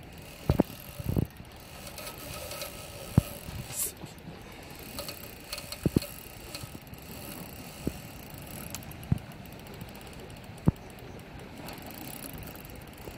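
Fishing reel ratcheting as a heavy fish pulls on the line, with a dozen or so sharp knocks scattered through.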